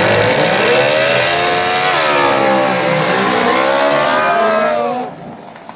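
Two racing lawn mower engines revving hard down a drag strip. Their pitch climbs, drops sharply about two seconds in, climbs again, then falls away and fades about five seconds in.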